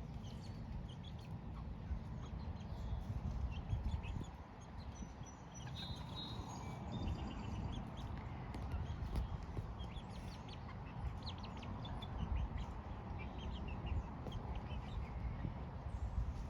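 Hens clucking softly now and then while dust bathing, with scattered short scratchy clicks over a steady low rumble.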